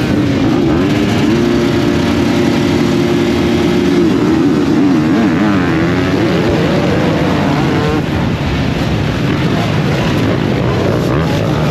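A pack of motocross bikes revving on the start gate. The engines are held at steady high revs, and about four seconds in their pitches start to waver and shift as the throttles change.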